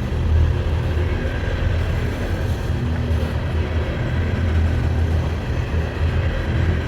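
Coal train's cars rolling past slowly, a steady low rumble of wheels on rail.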